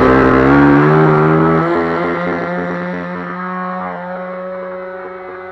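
RCGF 20cc single-cylinder two-stroke gasoline engine of an RC model airplane running. Its pitch drops over the first second or two, then holds steady while the sound slowly grows quieter.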